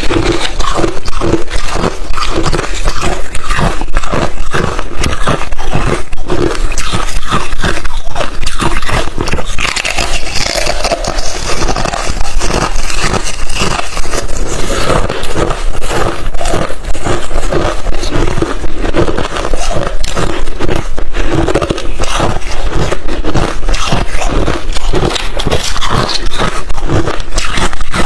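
Close-miked biting and chewing of crushed, refrozen ice chips: rapid, dense crunching that goes on without a break.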